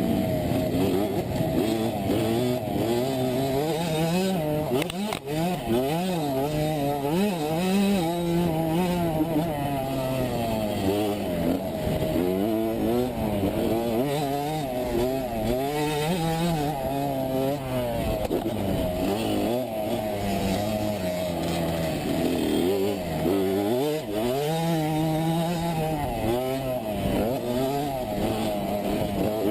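Engine of a 65cc two-stroke motocross bike being ridden hard, its pitch rising and falling over and over as the throttle opens and closes.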